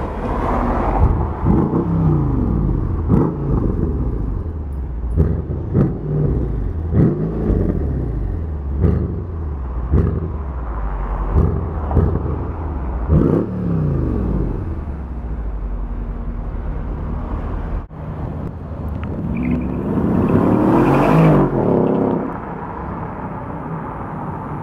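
Mercedes CLS 63 AMG's V8, tuned to 600 hp, revved from idle through its quad exhaust in about eight sharp blips, each rising and falling, then settling to idle. Later the engine note swells loudly for a couple of seconds as the car accelerates past, then drops away.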